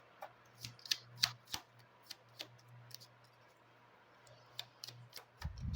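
Lenormand cards being handled and laid down: a run of short, sharp clicks and taps, with a low rumble near the end.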